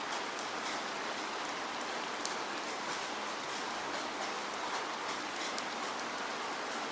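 Steady rain falling, an even hiss with scattered sharp drops ticking through it.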